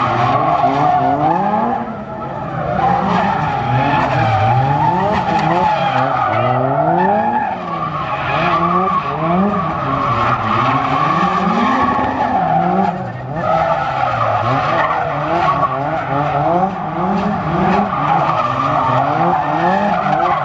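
Drift car engine revved hard and repeatedly, its pitch climbing and dropping about once a second as the throttle is worked, with tyres squealing and skidding under the sliding car.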